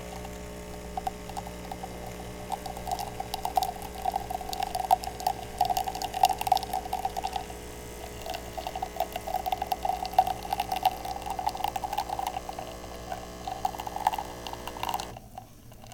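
Nespresso capsule machine brewing a regular espresso shot: its pump hums steadily while the coffee sputters into the cup with irregular crackling. It stops abruptly about fifteen seconds in, when the shot is done.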